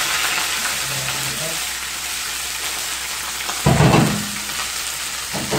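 Sliced onions sizzling in hot oil in a frying pan, a steady hiss. A dull thump about two-thirds of the way through.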